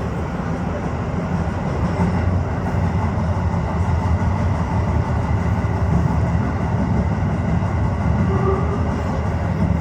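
Tokyo Metro 15000 series subway train running at speed through a tunnel: a steady rumble of wheels on rail with a faint steady high tone above it, getting a little louder about two seconds in.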